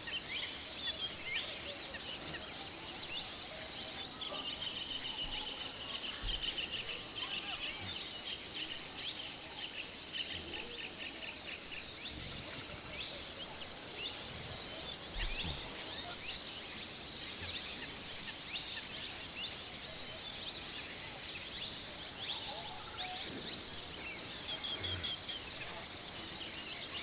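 Outdoor ambience: a steady high-pitched hum with birds chirping and trilling over it, busiest in the first third.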